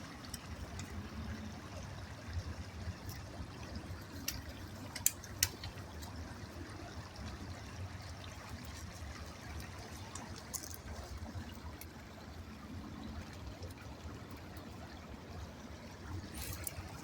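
Small stream trickling steadily, with scattered clicks; the two sharpest come about five seconds in.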